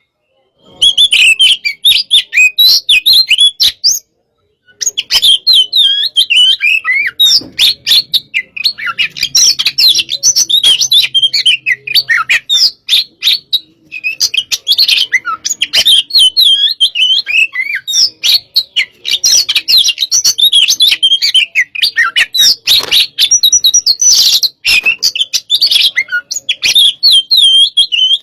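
Oriental magpie-robin (kacer) singing loudly: a fast, continuous run of varied chirps, whistled warbles and sharp clicking notes, broken by two short pauses near the start.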